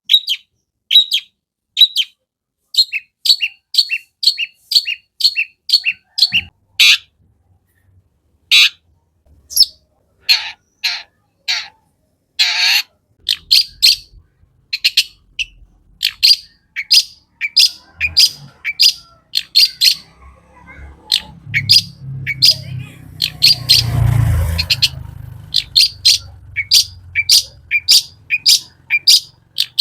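Long-tailed shrike (cendet) chattering in rapid series of short, sharp, high notes, broken by a few pauses and a few longer, harsher notes. In the second half a low rumble rises and fades under the song.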